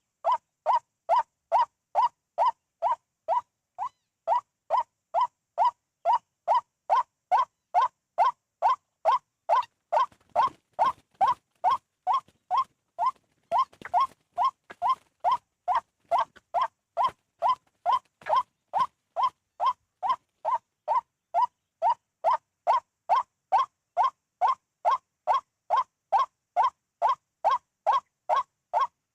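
White-breasted waterhen call played from a lure recording: one short call note repeated with machine-like regularity, about two a second. Faint clicks and rustling come in under it between about a third and a half of the way through.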